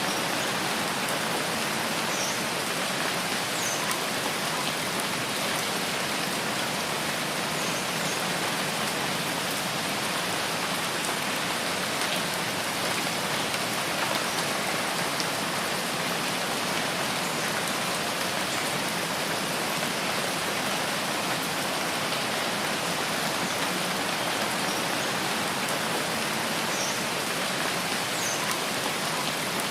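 Steady rain falling, an even hiss that never lets up, with a few faint short high chirps now and then.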